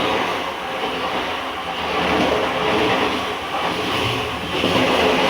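XPT express train passing close alongside: a loud, steady rush of wheel and air noise that swells around two seconds in and again near the end.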